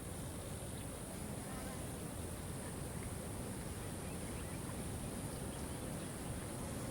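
Waterfall rushing steadily, with a thin, steady high-pitched drone over it.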